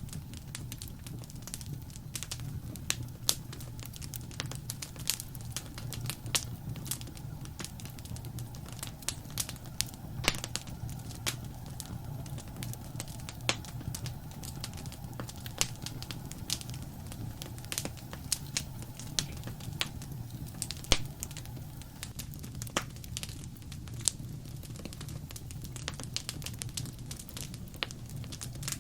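Wood fire crackling: frequent irregular sharp pops and snaps over a steady low rumble of flames.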